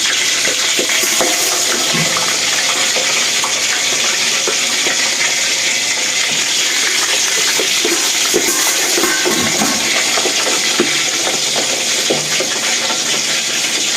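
Pork belly deep-frying in hot oil: a steady, dense sizzle with a few sharp pops of spattering fat.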